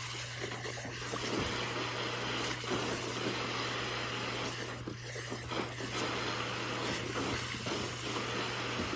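Steady rush of water splashing in a dog's wading pool, with a low steady hum underneath.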